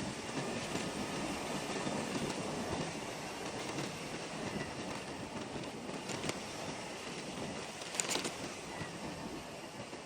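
Riding noise from a motor scooter underway: a steady rumble of wind, engine and tyres on a rough road, with two sharp knocks about six and eight seconds in.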